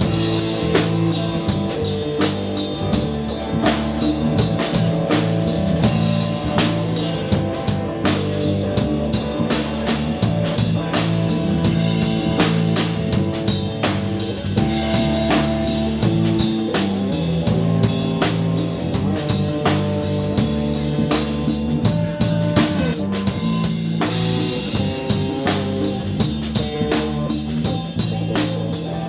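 Live blues band playing an instrumental passage: drum kit keeping a steady beat with electric guitar and bass.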